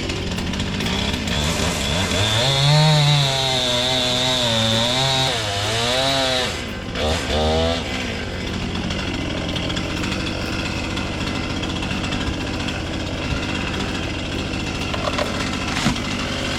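Chainsaw running, its pitch wavering up and down as it is worked through wood for the first several seconds, then running on more steadily.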